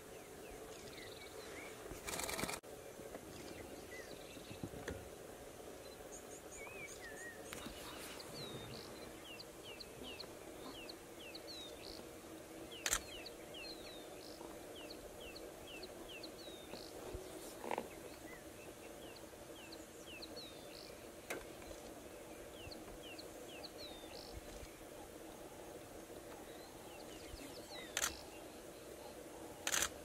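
Small birds calling in runs of short, high, falling chirps over a faint steady background, with a few sharp clicks scattered through; the clicks are the loudest sounds.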